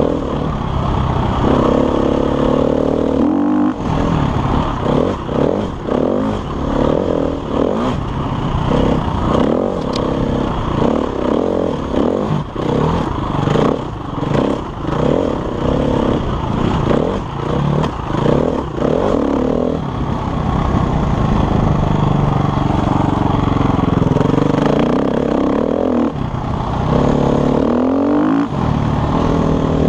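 KTM enduro motorcycle engine revving up and down as the throttle is rolled on and off in quick, choppy bursts, then held more steadily with pitch rising on acceleration near the end, with clattering from the bike over rough ground.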